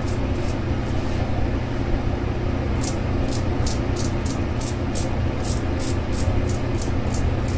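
Leymiga brass safety razor making short, quick strokes across stubble, about three scrapes a second, with a pause of about two seconds near the start, over a steady low hum.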